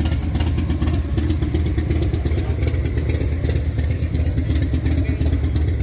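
Motorcycle engine idling close by, a steady, rapid exhaust beat.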